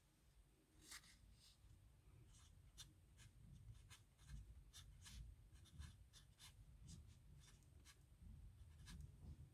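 Faint scratching of a pen writing on paper, in many short, irregular strokes.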